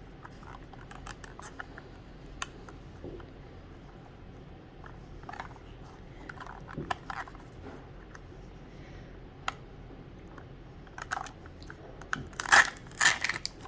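Plastic toy packaging handled and opened: scattered light clicks and crinkles from a Mini Brands capsule and its wrappers being unwrapped, with a few louder crinkling rustles near the end.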